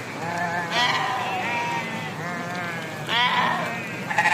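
A flock of sheep bleating, several calls overlapping, with the loudest bleats about a second in and again near the three-second mark.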